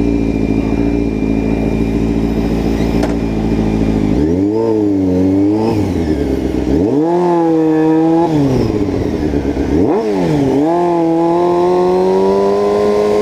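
Sport motorcycle with a loud exhaust, heard from on the bike: the engine holds a steady note, then pulls hard three times, its pitch climbing and dropping back as the rider shifts up through the gears.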